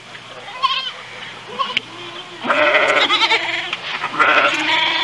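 Goat bleating: a couple of short calls, then two long, wavering bleats, the first about halfway through and the second near the end.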